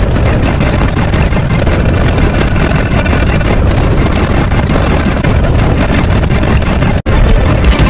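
Loud, steady noise with a strong low hum, engine-like. About seven seconds in it cuts out for an instant, then comes back with a deeper, heavier low end.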